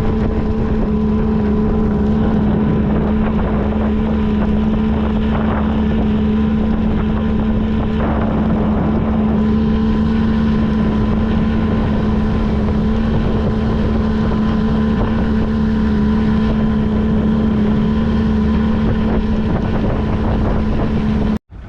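Boat motor running at a steady speed, a constant hum, with wind buffeting the microphone.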